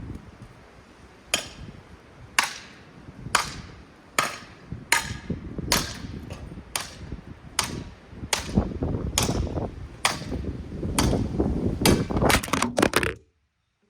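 Hampton Bay Hawkins ceiling fan being smashed: a run of sharp, hard blows about one a second that come faster near the end, then cut off suddenly.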